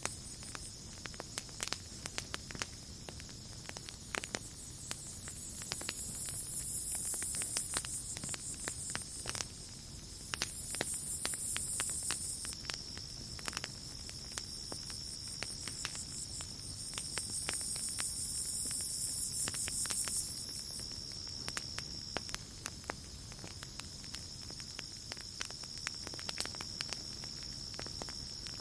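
Campfire crackling with many scattered sharp pops, over a steady, high chirring of night insects. A louder, higher insect trill swells up three times, each lasting a few seconds.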